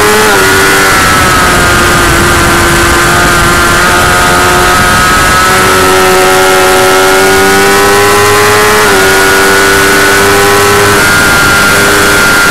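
Motorcycle engine running hard at high revs over a steady rushing noise. Its pitch climbs slowly and drops suddenly twice, once near the start and again about nine seconds in.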